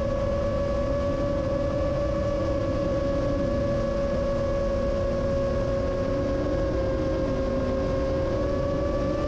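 Rajawali Fold 7 FPV quadcopter's motors whining steadily at cruise, their pitch drifting only slightly, over a rumble of wind.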